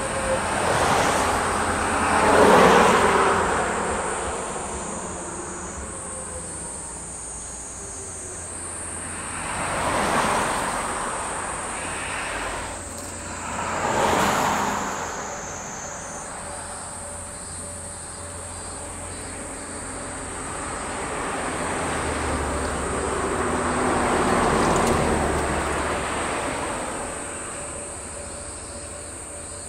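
A 383-series electric limited-express train runs past, its noise peaking about two seconds in and then fading. A steady high insect buzz carries on throughout, with further passing-vehicle noises swelling and fading around ten, fourteen and twenty-five seconds in.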